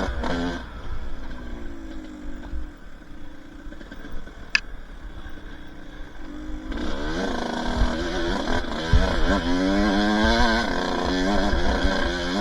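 Two-stroke dirt bike engine, low and quiet off the throttle for several seconds, then revving up and down repeatedly from about seven seconds in. There is a brief high squeak about halfway through.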